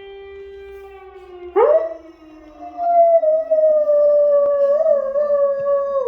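Dog howling in response to a siren: a steady siren tone, then about a second and a half in the dog starts one loud, long howl that rises at once and then sags slowly in pitch, with the siren still audible faintly underneath.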